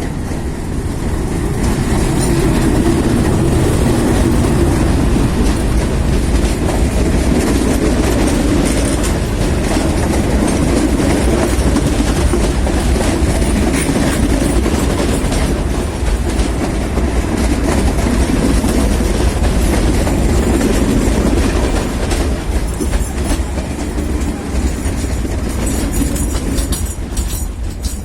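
Meter-gauge train running through the station, its wheels clattering over the rail joints with a steady heavy rumble. It eases a little in the last few seconds.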